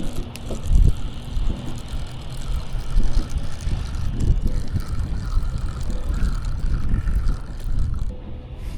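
Wind buffeting the microphone in uneven gusts, a low rumble.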